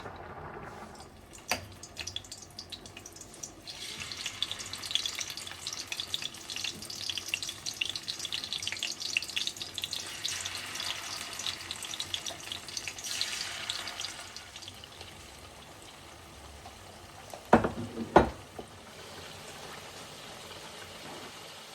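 Food sizzling and crackling in hot oil in a frying pan, loudest for about ten seconds and then settling to a quieter hiss. Near the end come two sharp, loud knocks.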